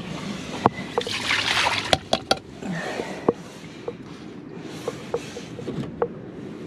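Water splashing and trickling as a small animal's water bowl is changed, with a burst of splashing about a second in and scattered knocks and clinks of the bowl.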